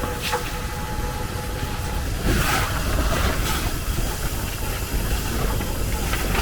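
Strong wind buffeting the microphone in a steady low rumble, with a few sharp knocks, the loudest about two and a half seconds in.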